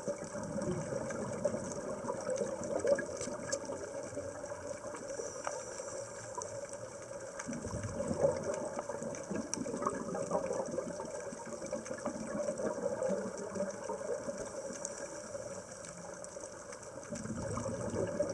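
Steady water noise with scattered small clicks, swelling and easing slowly.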